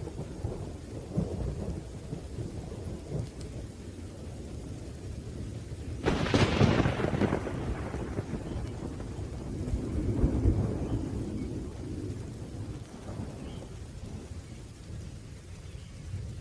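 Thunderstorm: rolling thunder rumbling low over steady rain, with a sharp thunderclap about six seconds in that fades into a long rumble, and another swell of rumbling a few seconds later.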